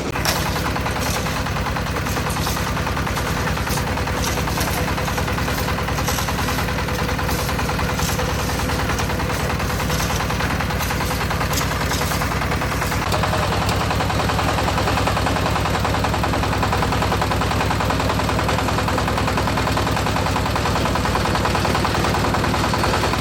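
Concrete mixer running steadily with an engine-like drone, with irregular clattering over roughly the first half.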